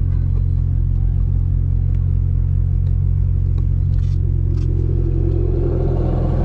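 Car engine idling with a deep, steady rumble; in the last couple of seconds an engine revs up, its pitch rising.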